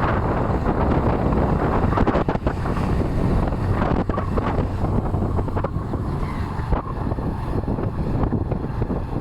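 Boda boda motorcycle riding along, its engine running steadily under heavy wind buffeting on the microphone.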